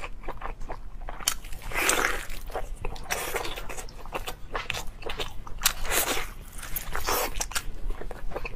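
Close-miked eating of a glazed goat leg: biting and chewing with many small wet clicks, and a few longer noisy swells.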